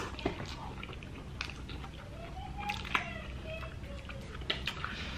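Close-miked eating sounds of fried chicken: chewing, lip smacks and finger licking, heard as scattered short clicks and wet smacks.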